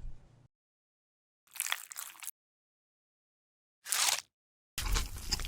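ASMR eating sounds: three separate bites and chews with silence between them, about a second and a half in, at four seconds, and a longer, fuller one near the end.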